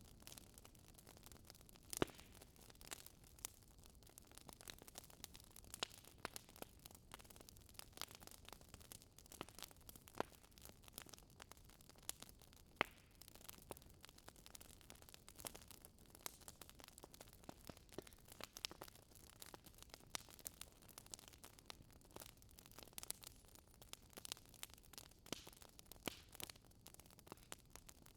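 Faint crackling of a fireplace fire: irregular small pops and snaps over a low hiss.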